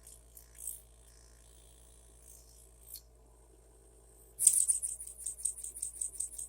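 A small D K Machine Products toy steam engine, running on compressed air, starts up about four seconds in and runs with rapid, even hissing exhaust puffs, about five a second. It is running in reverse, the direction in which it runs well.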